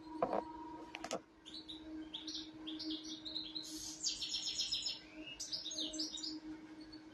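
Small birds chirping and twittering, many quick high chirps in a row, over a steady low hum. Two sharp knocks come in the first second or so.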